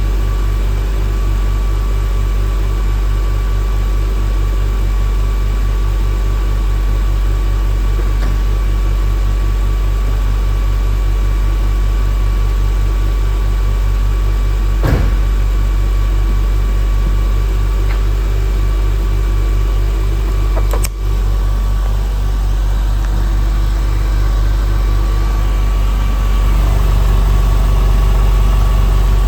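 Water-cooled 3.4-litre flat-six of a 1999 Porsche 911 Carrera (996) idling steadily after a cold start, with a couple of brief clicks partway through and a slight rise in level near the end.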